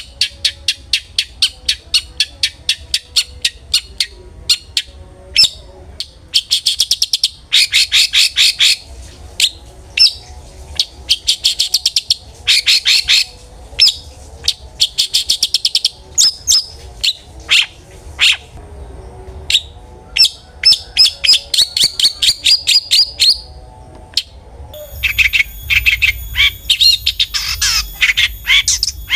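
Long-tailed shrike (cendet) singing hard: rapid strings of sharp, high chirps, about four to five a second, broken by fast rattling trills. A thin, very high steady tone joins near the end.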